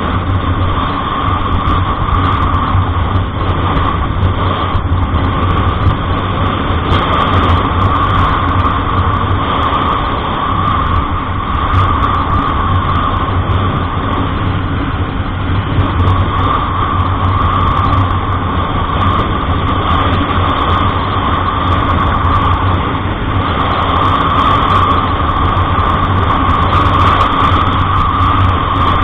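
Steady engine and road noise of a vehicle being driven, with an even drone throughout.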